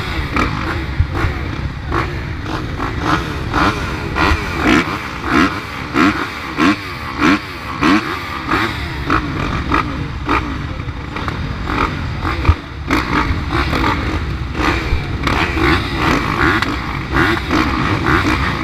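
Motocross dirt bike engines revving, the pitch rising and falling again and again in quick bursts.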